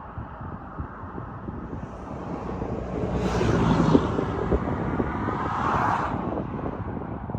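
A vehicle passing by, swelling from about two seconds in and fading by about six and a half, over a steady rumble of wind on the microphone.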